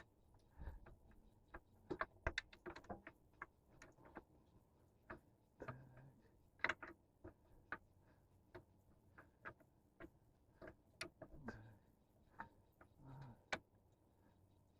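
Faint, irregular clicks and knocks of hand tools on metal while work on a truck engine's belt idler pulley gets under way.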